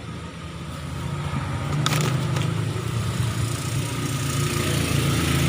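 A motor vehicle's engine running steadily as a low hum, gradually growing louder, with a short click about two seconds in.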